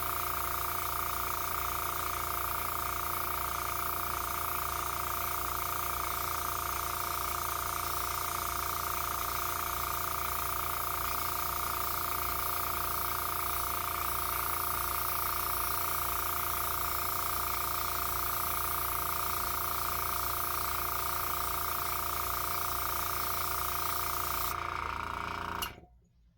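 Small airbrush compressor running steadily with its motor hum and the hiss of air through the airbrush. The high hiss drops away a little before the end, and the compressor then cuts off suddenly.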